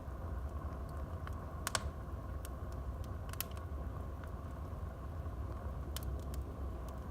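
Wood fire burning in a fireplace: irregular crackles and pops over a steady low rumble, with the sharpest pops about a second and a half in, at about three and a half seconds, and a few more near six seconds.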